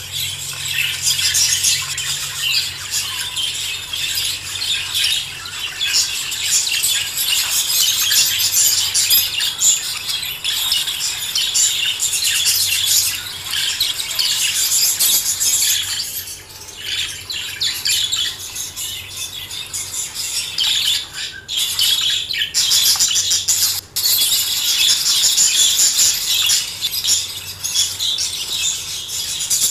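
A flock of budgerigars and lovebirds chirping and chattering nonstop, with many high, short calls overlapping and a brief lull a little past the middle.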